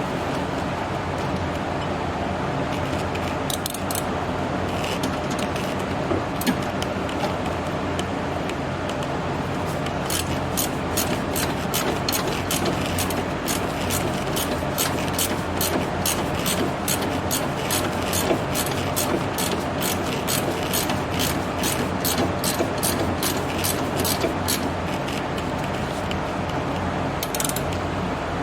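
Hand ratchet wrench clicking steadily, a couple of clicks a second, starting about ten seconds in, over the steady noise of a shop fan.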